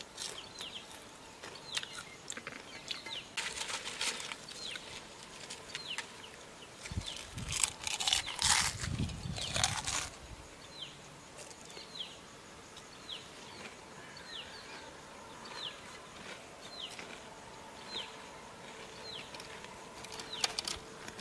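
A bird calling over and over in the open, a short high falling chirp about once a second. A loud burst of noise several seconds long comes about seven seconds in.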